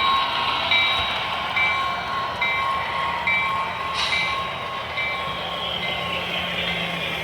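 A bell on a model railroad layout ringing at a steady pace, a little more than once a second, fading out about five seconds in. There is a short hiss about four seconds in.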